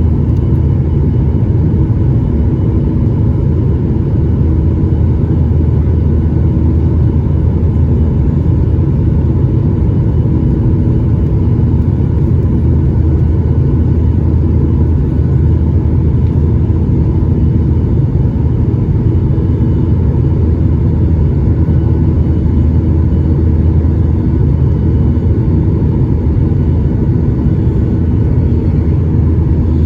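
Steady drone inside the cabin of a Boeing 737-800, the low rumble of its CFM56 jet engines and the airflow, holding a constant level.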